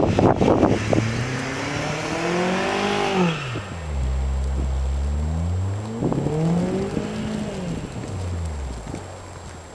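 Audi car engine accelerating hard, climbing in pitch, then dropping steeply about three and a half seconds in; it climbs again around six seconds and falls away near the end.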